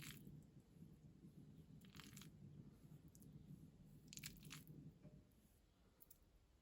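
Faint, crisp crunches of food, three or four of them about two seconds apart, over a low steady hum that fades near the end.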